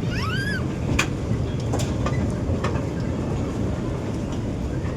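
Park ride-on train running: a steady low rumble with sharp clicks every second or less from the wheels on the track, and a short high squeal right at the start.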